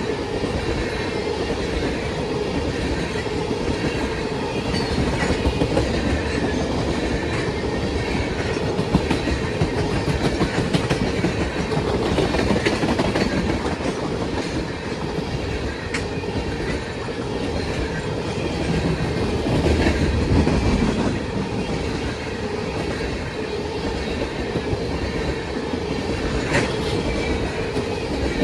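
Railroad cars rolling past steadily, their wheels clacking over the rail joints with a continuous rumble.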